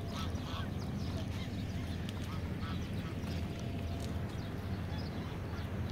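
Birds calling in short, repeated notes over a steady low rumble.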